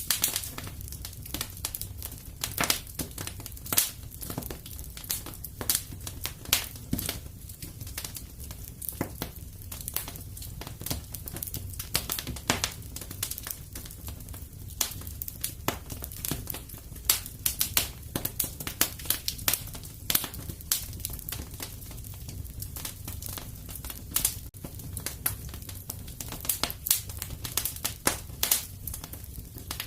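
Wood fire in a fireplace crackling, with many irregular sharp pops and snaps over a low, steady rumble of the flames.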